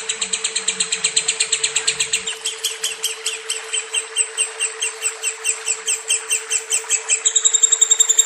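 Lovebird chirping in a long rapid trill (ngekek), about eight to ten sharp chirps a second, changing to a faster, higher run near the end.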